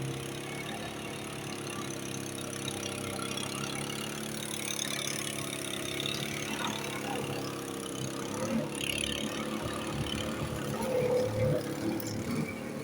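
An engine running steadily, with an even hum.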